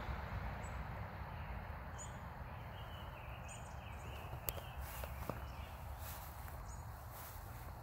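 Small birds chirping in short high calls every second or so, over a steady low rumble of outdoor background noise, with a single sharp click about halfway through.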